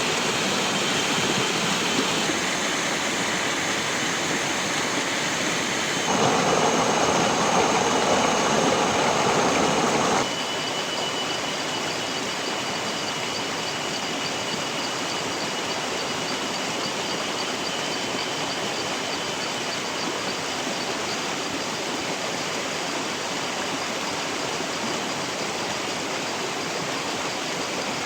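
Steady rushing of flowing river water. It shifts in level and tone abruptly about six and ten seconds in, loudest in between, with a thin high steady whine over it.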